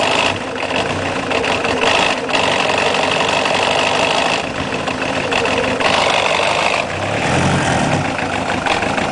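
Ford Escort 1.8 diesel engine running at idle, a steady engine noise with a few brief dips in level.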